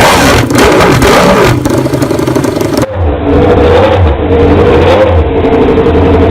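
Ducati MotoGP race bike engines at high revs: one bike revving hard with its pitch rising and falling, then about three seconds in an abrupt switch to another bike with a steadier, held engine note that swells briefly near the middle.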